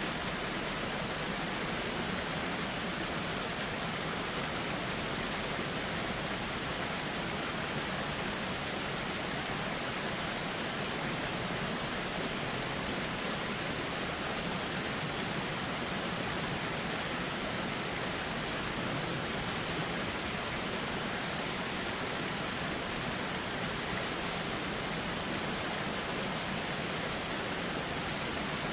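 River water flowing steadily, a continuous even rush with no changes.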